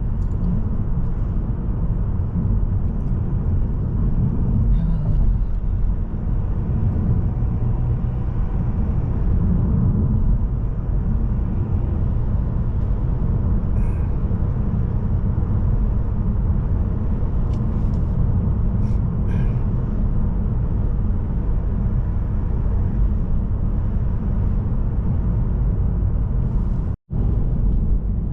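Steady low rumble of a Mazda3 sedan with a 1.8 L diesel engine driving: road and engine noise at cruising speed, with a few faint light ticks. It cuts out for an instant near the end.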